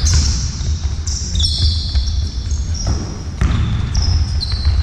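Indoor court game: a ball bouncing repeatedly on a hard sports-hall floor, with short high squeaks of players' shoes on the court.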